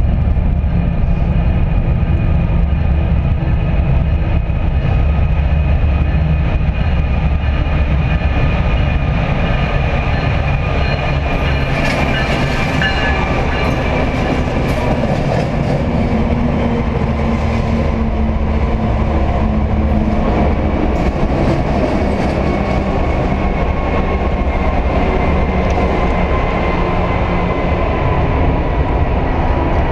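A train running past at close range inside a tunnel: a loud, continuous rumble of wheels on rails, with steady high-pitched tones ringing above it.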